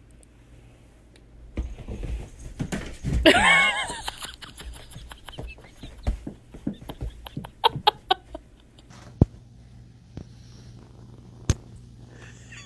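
A cat gives one loud, drawn-out meow about three seconds in. Scattered sharp clicks and knocks follow.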